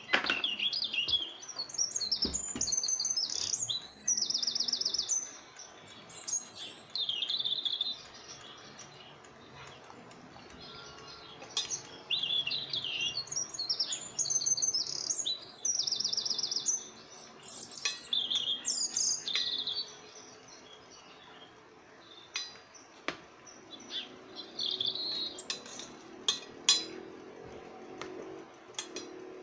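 A bird singing, with repeated high chirps and fast trills in bursts of a few seconds. Near the end come a few sharp clicks, as of a utensil against the steel pot.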